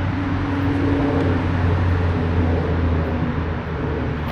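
Road traffic noise from a nearby major road: a steady rumble with a low engine hum, a little louder around the middle.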